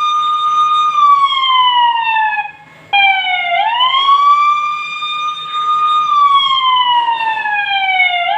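Recorded police siren played back loud, wailing: each cycle the pitch sweeps up quickly, holds, then slides slowly down. Two cycles are heard, with a brief cut-out about two and a half seconds in.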